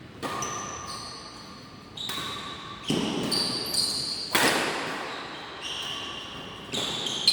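Badminton rally in an echoing sports hall: rackets striking the shuttlecock in sharp hits every second or two, with short high squeaks of shoes on the court floor.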